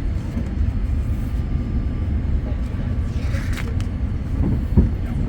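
Steady low rumble of a Boeing 787-9's cabin noise, with a few faint clicks and a short knock near the end.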